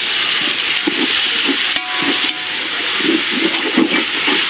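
Sliced tomatoes sizzling as they fry with onions in hot oil in a steel pot, a steady hiss, while a steel ladle stirs and turns them. A single metal clink rings out about two seconds in.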